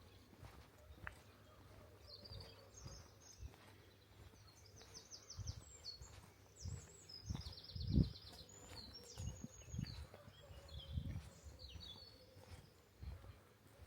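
A songbird singing a string of rapid high trills and chirps, with low dull thuds underneath, the loudest about eight seconds in.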